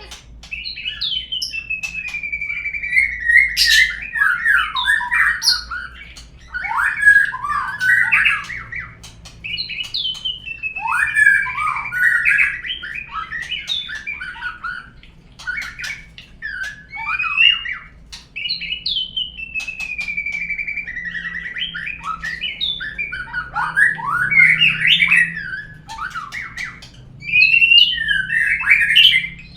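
Murai song (Copsychus songbird): phrases that open with a clear falling whistle and break into fast, varied chattering notes. The bouts repeat every few seconds with brief pauses. It is a lure song used to prompt a murai to sing.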